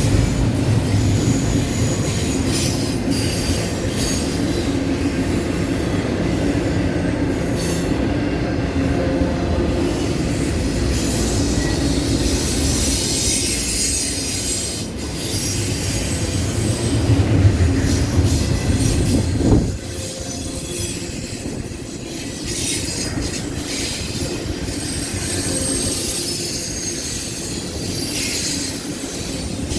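Intermodal freight cars rolling past on a superelevated curve, steel wheels squealing against the rails over a steady clatter and rumble. The low rumble drops off abruptly about twenty seconds in.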